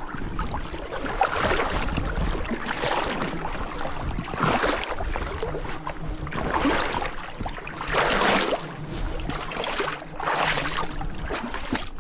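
Water swishing in repeated surges, about every one and a half to two seconds, over a steady low rumble.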